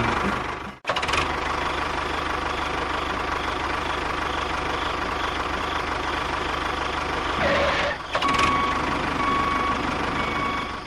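Engine running steadily, with a sudden brief cut just under a second in and a short change in the sound at about seven and a half seconds.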